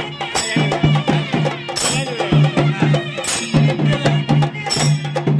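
Chenda melam ensemble playing: rapid, steady drumming with a wavering melody line carried above the beat.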